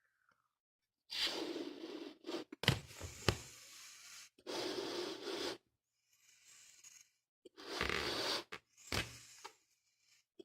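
Balloon being blown up by mouth: three long breaths into it, about a second each, with sharp clicks and squeaks of the stretched rubber in between.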